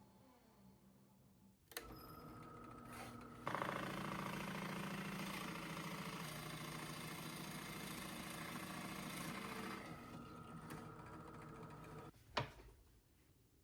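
A small electric power tool motor is switched on with a click and runs steadily. It gets louder and busier for several seconds in the middle, as if cutting or driving under load, then eases back and is switched off near the end, followed by a sharp knock.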